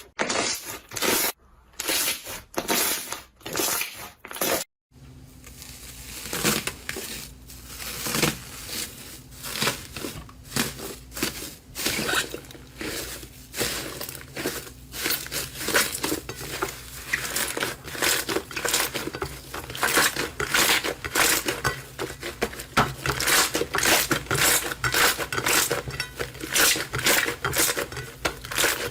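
Slime being handled, giving rapid sticky crackles and pops. Separate sharp clicks give way, after a sudden cut about five seconds in, to a denser, continuous crackling that grows louder toward the end.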